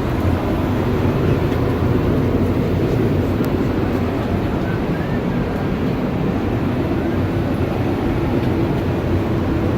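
Steady in-flight cabin noise of an Airbus A350-900: engine and airflow noise heard at the rear galley, even and unchanging, mostly low in pitch, with a few faint ticks.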